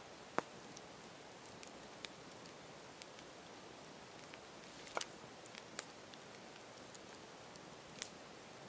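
Campfire crackling: a soft steady hiss with scattered sharp pops and snaps from the burning wood, about eight in all. The strongest pops come just after the start and around five seconds in.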